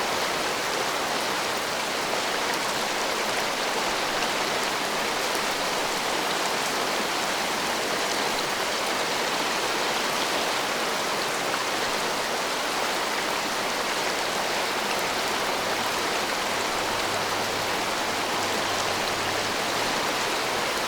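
Heavy rain falling in a steady, dense downpour, with no thunder.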